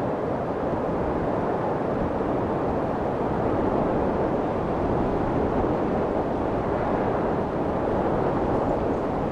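Steady white noise for soothing a baby: an even, unbroken rush weighted toward low and middle pitches, so it sounds deep and muffled rather than bright.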